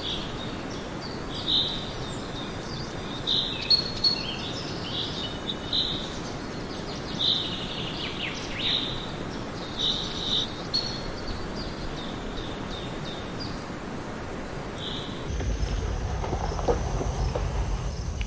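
Outdoor ambience of birds calling, short repeated chirps a second or two apart, over a steady background hiss. Near the end a low rumble comes up under it.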